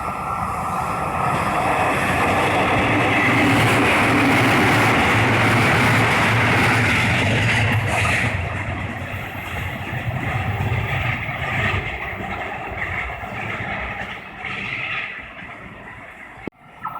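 Train passing over a level crossing on the Tokaido Main Line: a rumble and rush of wheels that builds to its loudest a few seconds in, then eases off after about eight seconds and fades toward the end, with the crossing's warning bell ringing under it.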